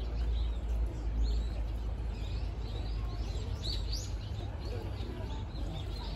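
Small birds chirping: a few short high chirps, bunched about four seconds in, over a steady low outdoor rumble.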